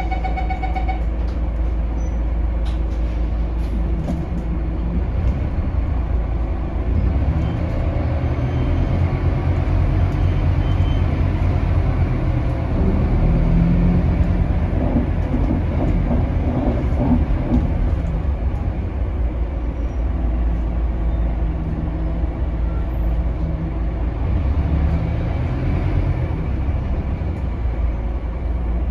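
Scania DC9 diesel engine of a Scania K280UB city bus heard from on board, running under load while the bus drives. It grows louder from several seconds in and eases off again near the end.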